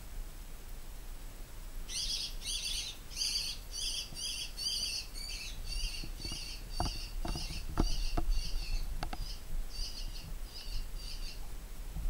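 A small bird, caught by cats, calling a quick run of high, harsh notes about three a second, the odd call the uploader likens to a vampire laugh; it starts about two seconds in and fades out shortly before the end. A few soft knocks come midway.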